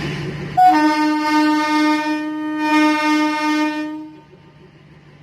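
Vehicle horn sounding one long, steady blast of about three and a half seconds, starting about half a second in.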